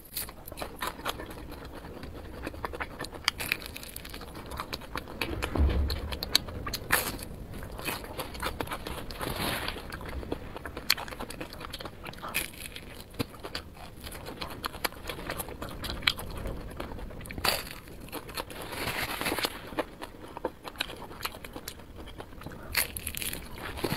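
Close-up eating sounds: biting into and chewing a large chili-coated grilled skewer, with many irregular short clicks of biting and chewing.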